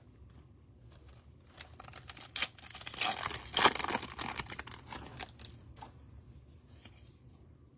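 Foil trading-card pack being torn open and its wrapper crinkled, a burst of tearing and rustling about two to five seconds in, loudest in the middle.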